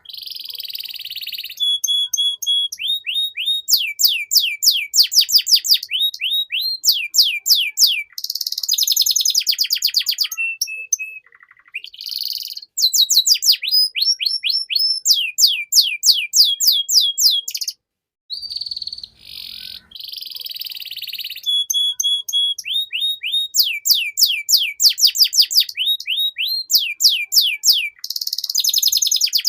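Domestic canary singing a long, loud song: fast trills of repeated falling whistled notes alternating with buzzy, raspy rolls. The song breaks off briefly a little past the middle, then starts again with the same run of phrases.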